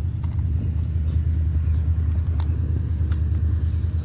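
Steady low rumble with a slight pulsing, and a few faint ticks over it.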